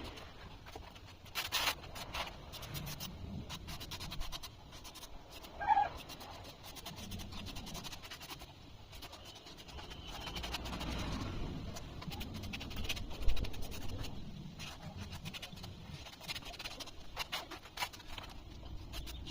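Scratching and light clicking of hands working thermocol (polystyrene foam), with a brief squeaky pitched sound about six seconds in and a sharper click a little after the middle.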